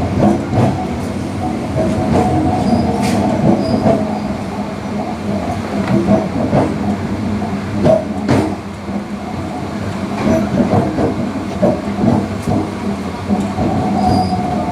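MEMU electric passenger train running along the track, heard from inside the coach: a continuous rumble and rattle with scattered knocks and clicks from the wheels and carriage.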